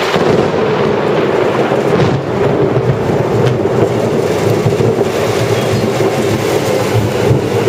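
A Yamanote Line E235 series electric train passing close by, its wheels running loudly over the rails, with heavy rain falling.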